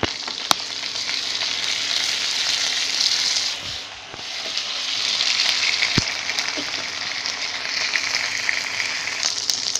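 Golden-brown onion rings frying in hot mustard oil in a pan: a steady sizzle, stirred with a wooden spatula. The sizzle drops briefly about four seconds in and then picks up again, with a sharp click about half a second in and another at about six seconds.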